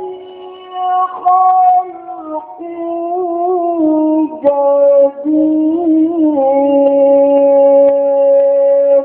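Quran recitation in the melodic mujawwad style: a man's voice drawing out a long phrase with wavering ornamental turns. Near the end it holds one long steady note that cuts off sharply.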